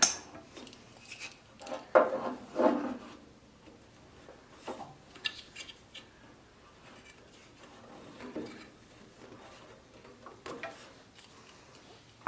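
Metal parts and tools being handled, clanking and clinking at irregular intervals with a few louder knocks about two seconds in.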